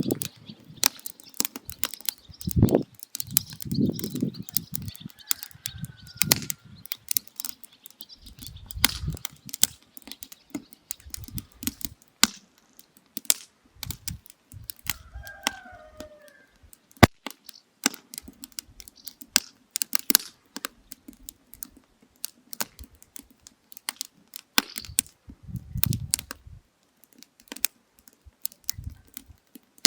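Burning firewood crackling and popping, with irregular sharp snaps coming several times a second. A few low rumbles rise and fade, and faint bird chirps come twice.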